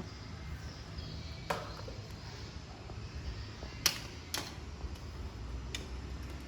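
Toy cars being handled, giving four sharp clicks and knocks over a low steady rumble; the loudest click comes a little before the middle.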